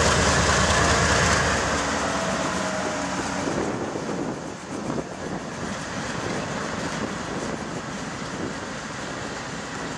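Norfolk Southern GE ES44DC and Dash 9 diesel locomotives passing close by. Their engine sound fades after about two seconds as they move away, leaving the steady rolling noise of the autorack cars on the rails.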